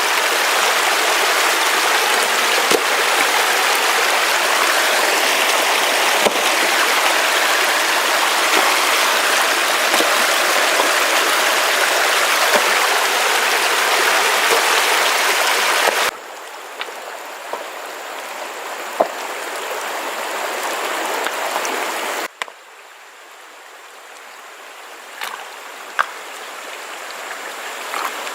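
Stream water rushing, a steady loud hiss of running water. It drops suddenly to a quieter rush about two-thirds of the way in and again near the end, with a few light knocks.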